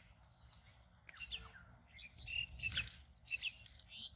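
Small birds chirping in a run of quick bursts, starting about a second in and loudest near the middle, with a brief low rumble under the loudest chirps.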